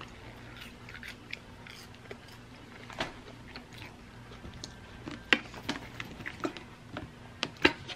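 A person chewing French fries close to the microphone, with scattered sharp clicks and knocks from handling a squeeze bottle of ketchup. The loudest knocks come about five seconds in and near the end.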